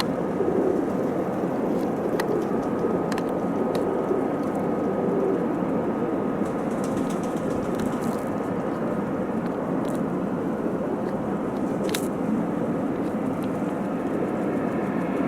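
Steady outdoor background noise with a faint high hum running through it and a few faint clicks, the sharpest about twelve seconds in.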